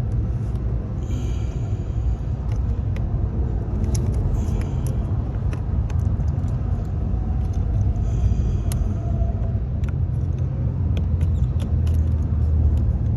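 Scattered light clicks and knocks of the cabin blower fan being pushed up into its housing under the dashboard and fastened, over a steady low rumble.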